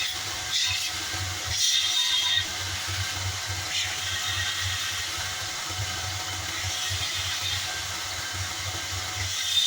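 Homemade belt sander driven by a recycled washing-machine motor, running steadily with a low hum and several short bursts of hiss, the strongest about two seconds in and at the end.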